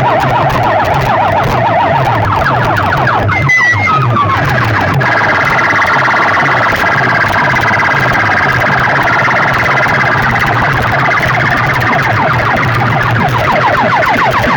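Loud DJ track played through a competition sound-box speaker system: a fast, warbling siren-like effect over a steady repeating bass pulse. The warble shifts higher about four to five seconds in.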